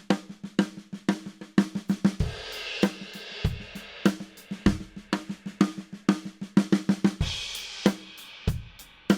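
Drum kit played in quick runs of even snare strokes in a right-left-left grouping of three, each run landing on a crash cymbal with the bass drum, about two seconds in and again about seven seconds in.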